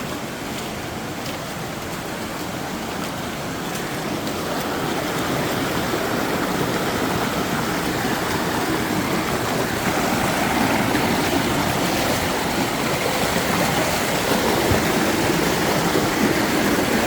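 Shallow stream water rushing and splashing over rocks, a steady noise that grows louder over the first several seconds and then holds.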